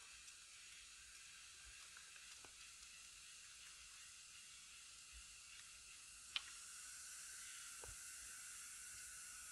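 Faint, steady high hiss with one sharp click about six seconds in, after which the hiss is slightly louder.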